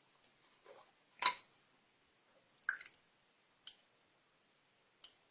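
Plastic clicks and taps from handling alcohol markers at a craft table: four separate sharp clicks, the loudest about a second in with a short ring.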